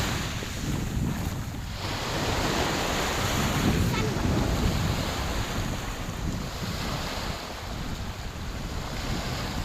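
Sea waves breaking and washing up on a beach, swelling loudest a couple of seconds in, with wind buffeting the microphone.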